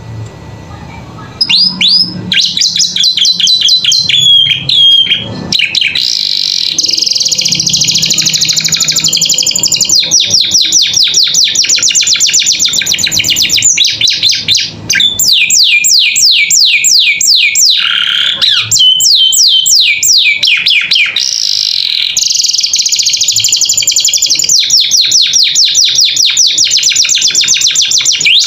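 Domestic canary singing loudly and without pause: long rolling trills, each a fast run of the same sweeping note repeated many times a second, switching to a new phrase every few seconds.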